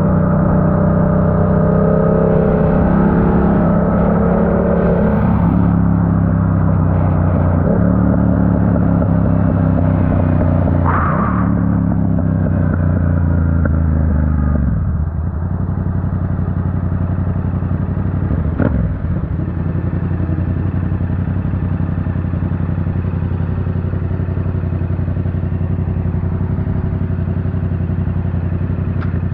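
Yamaha R7's 689 cc parallel-twin engine through an aftermarket Yoshimura AT2 exhaust, with the bike slowing on a couple of downshifts, each one bringing a step up in engine speed. About halfway through it settles to a steady idle, with one sharp click a few seconds later.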